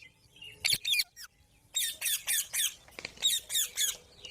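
Parrot squawking: three quick bouts of harsh, high, repeated calls with short pauses between them.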